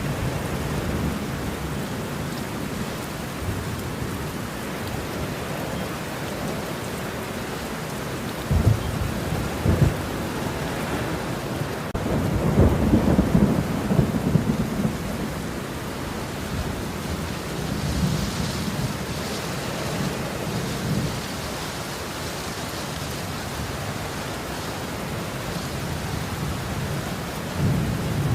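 Steady rain with thunder rumbling at intervals: two sharp claps about a third of the way in, a longer rolling rumble near the middle, and further rumbles later and near the end.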